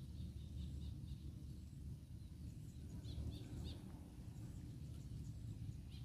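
Small birds chirping: a few short high notes near the start and again about three seconds in, over a steady low rumble.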